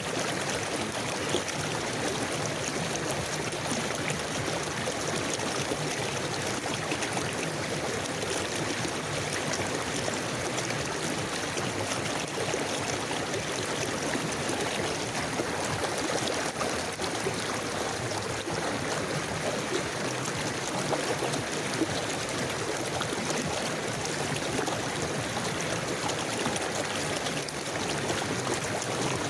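River water flowing steadily over stones, an even rushing with small gurgles and splashes.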